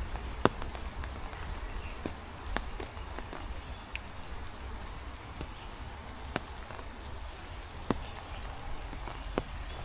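Heavy rain falling steadily, with a low wind rumble on the microphone. Sharp single ticks come every second or two as large drops land close by.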